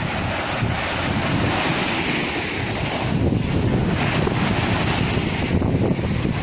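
Sea waves washing in, a continuous hiss of surf that swells and eases, with wind buffeting the microphone as a low rumble.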